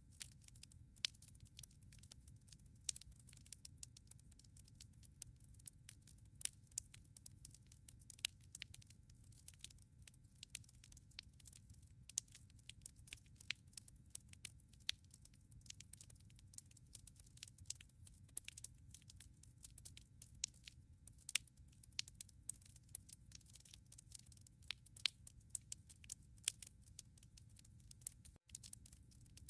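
Firewood crackling in a fireplace: irregular sharp pops and snaps, several a second, over a low steady rumble of the fire.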